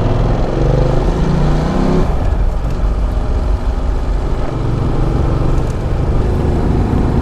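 Ducati Multistrada 1200's L-twin engine pulling the motorcycle away, its pitch rising under acceleration, dropping at a gear change about two seconds in, then running on at a steadier note.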